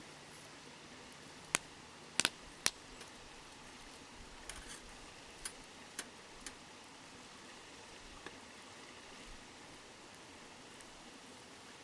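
Wood campfire crackling, with sharp pops clustered around two seconds in and scattered smaller ones after, over the steady murmur of a river.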